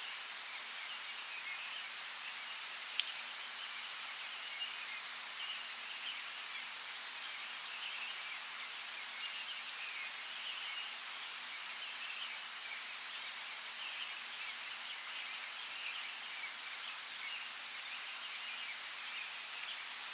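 Steady hiss of falling rain with a few sharp, louder drops hitting close by, about 3, 7 and 17 seconds in. Birds chirp continually under the rain.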